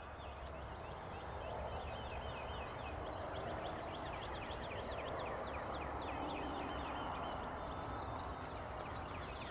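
Many birds calling at once: a dense, continuous stream of short high chirps over a steady low rumble.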